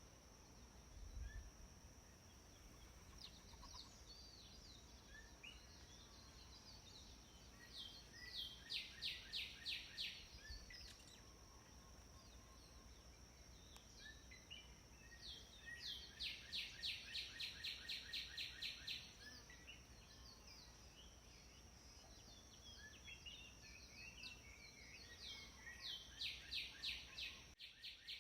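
Birdsong: one bird repeats a phrase of evenly spaced, rapidly repeated high notes three times, each phrase lasting two to three seconds and coming roughly every eight seconds. Other birds chirp faintly between the phrases over a steady high, thin tone.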